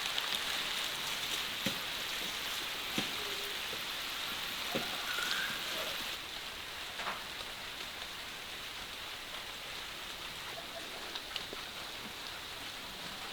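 Steady rain with scattered drops tapping. It eases slightly about halfway through.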